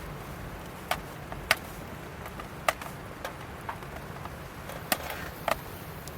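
Burning firewood crackling: sharp, irregular pops and snaps over a steady low background noise.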